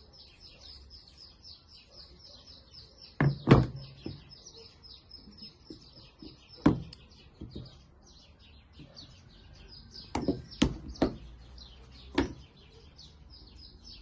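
Birds chirping, a fast steady twittering that runs throughout. Several sharp knocks or taps cut through it: a pair a few seconds in, one in the middle, and a cluster of four near the end.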